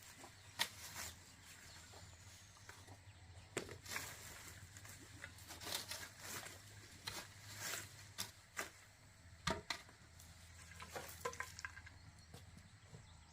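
Irregular light knocks and clicks, a few every second or two, over a faint low hum.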